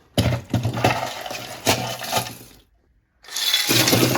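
Loose scraps of 3D-printing waste plastic clattering as they are handled or tipped out. The clatter runs in two spells, broken by a sudden half-second silence just under three seconds in.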